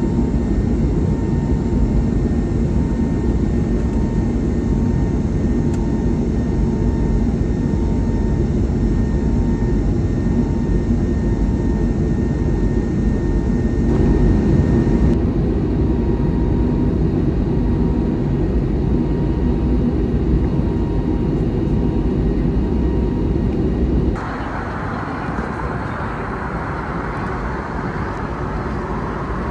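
Airbus A321neo jet airliner noise: a steady engine drone with a thin, steady whine over it. About 24 seconds in, the sound changes abruptly to a quieter, hissier rush.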